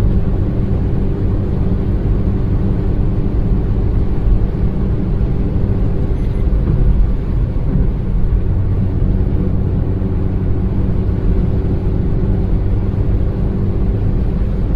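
Maruti Suzuki Baleno hatchback's inline-four engine and tyres making a steady low rumble as the car drives along.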